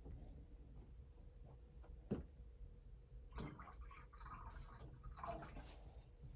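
A single soft knock, then about three seconds of quiet rustling and clattering handling noises.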